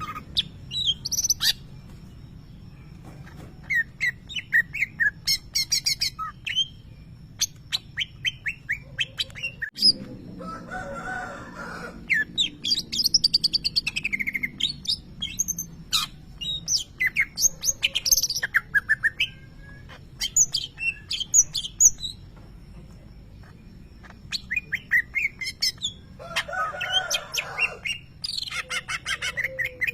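A caged cucak ijo (green leafbird) singing in bursts of rapid, sharp, gliding chirps and whistles, with short pauses between the runs. It is a bird kept for its loud 'tembakan' phrases in the style of a lovebird's call.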